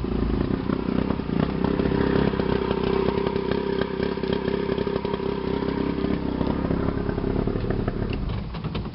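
1982 40 hp Mercury two-stroke outboard engine running steadily, then shut off, winding down and stopping near the end.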